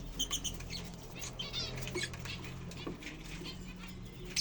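Lovebirds chattering in quick, high chirps, with short clicks and rustles among them.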